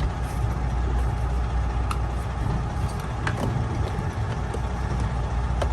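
Semi truck's diesel engine idling steadily, heard from inside the cab, with a few light clicks and knocks as dash parts are fitted back into place.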